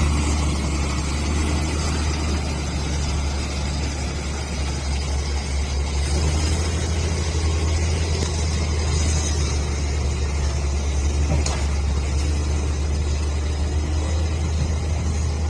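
Heavy construction machine's diesel engine running steadily, a continuous low drone.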